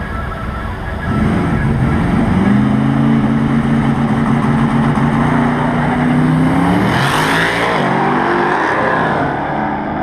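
Hemi V8 engines of two Dodge Chargers, a twin-turbo 1969 Charger and a supercharged SRT Hellcat, launching at full throttle in a drag race. About a second in the engine note comes in loud and climbs steadily; around seven seconds in there is a brief hiss and the note breaks into several changing pitches as the cars pull away.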